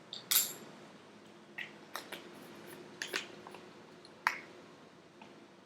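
Light clicks and taps of a measuring spoon and seasoning containers being handled at a small sauce bowl, about seven of them spread irregularly, over a faint steady hum.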